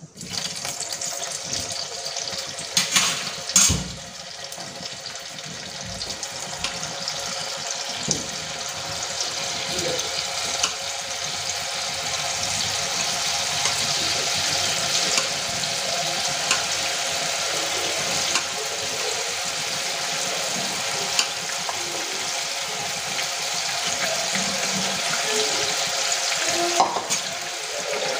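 Soya chunk kebab pieces sizzling as they deep-fry in hot oil in a kadai. The sizzle thickens over the first ten seconds as more pieces go in. A few sharp knocks come about three seconds in and one more near the end.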